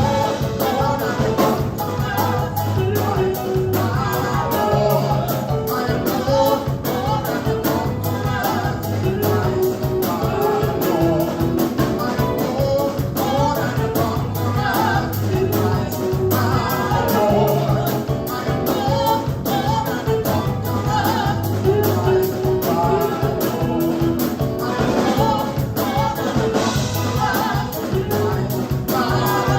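Live gospel praise band playing an upbeat worship song, with singing over a steady drum beat.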